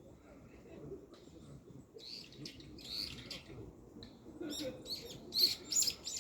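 Small birds chirping in quick clusters of short, high calls, starting about two seconds in and loudest near the end.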